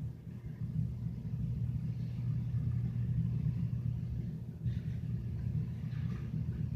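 Steady low rumble, with faint brief rustles about two-thirds of the way through and near the end.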